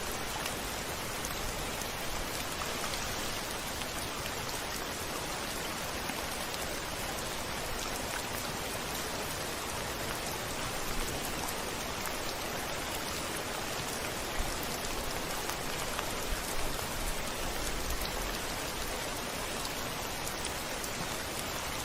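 Steady heavy rain falling on a window, a dense even hiss with a few louder drop hits in the second half. A brief low rumble sits under it about three quarters of the way through.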